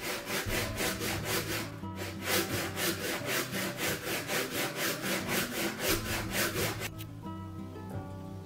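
Handsaw cutting through a wooden plank in quick, even back-and-forth strokes, about four a second. There is a brief pause about two seconds in, and the sawing stops about seven seconds in. Soft music plays underneath.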